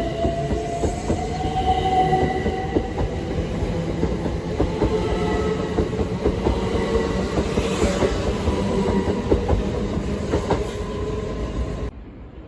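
A train running close by on the rails, its wheels clicking over rail joints with held squealing tones from the wheels. The sound cuts off suddenly near the end and a quieter background follows.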